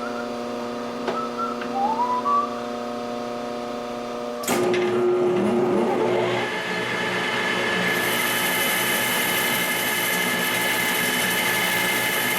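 Metal lathe running with a steady hum. About four and a half seconds in, a cut-off blade bites into a 6061 aluminium bar and a louder, rougher cutting noise takes over as the blade roughs in a sphere shape. A high hiss joins a few seconds later.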